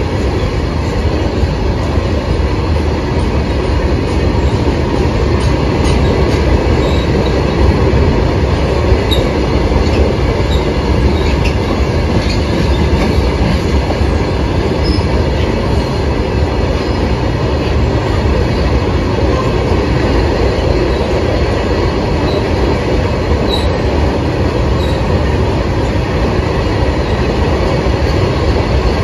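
Freight train of BOXNHL open box wagons rolling past on the adjacent track: a steady rumble and clatter of steel wheels on rail, with a few brief high wheel squeals.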